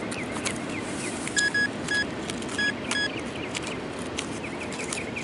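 A metal detector's short, high beeps, five times in about a second and a half, as it sounds over a dime just dug up. Clicks and scrapes of handling and digging come between the beeps.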